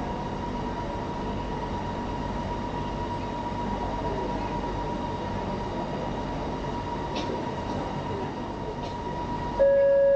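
Kelana Jaya Line LRT train running, heard from inside the car: a steady rumble and hiss with a constant whine. Just before the end a louder steady tone cuts in suddenly.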